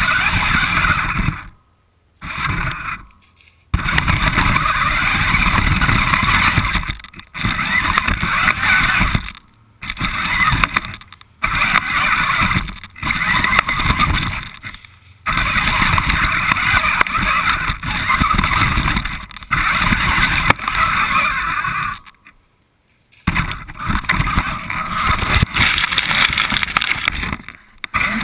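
Radio-controlled car driving, heard from on board: a noisy rush of its motor and wheels over the ground. It comes in runs of one to four seconds, broken by short stops, the longest about three-quarters of the way through.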